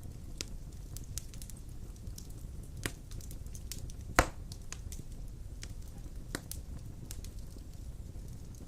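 Large wood logs burning in a fireplace: a steady low rumble of flames with scattered crackles and one loud, sharp pop about four seconds in.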